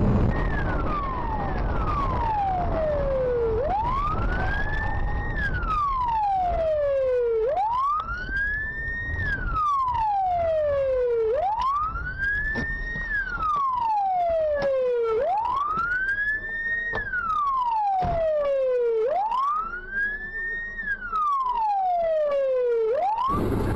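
Emergency vehicle siren in a slow wail, rising over about a second and a half and falling over about two seconds, repeating about every four seconds over road noise. It cuts off abruptly just before the end.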